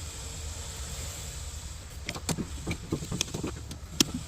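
Small clicks, rattles and knocks of hands working on a mini excavator's hydraulic hoses and fittings, starting about two seconds in with one sharper knock near the end, over a steady low rumble.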